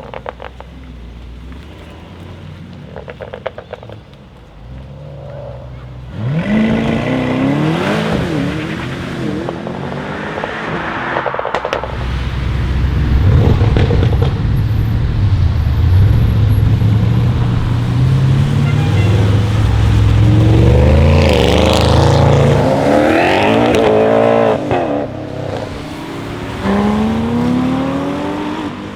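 Audi RS6 C8's twin-turbo 4.0-litre V8, with a Capristo exhaust and OPF delete, accelerating hard. After a few quieter seconds the engine note jumps about six seconds in and climbs in pitch, followed by a loud low drone and several more rising pulls through the gears in the second half.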